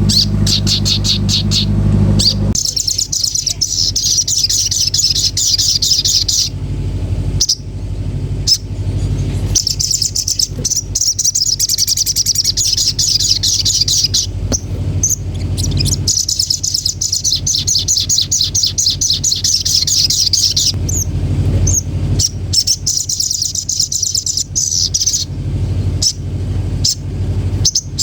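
Sogon bird singing in long, very rapid high chattering trills, several runs of a few seconds each with short breaks between, over a steady low hum.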